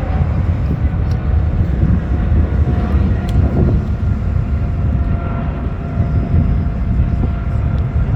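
Aircraft engine noise: a steady low rumble with faint higher tones above it.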